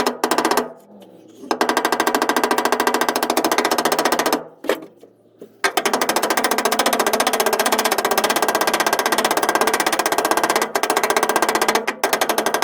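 Pneumatic air hammer hammering rapidly on the steel of a car's rear quarter panel, working a dent out from behind. It runs in bursts, stopping briefly about half a second in and again around four and a half seconds in.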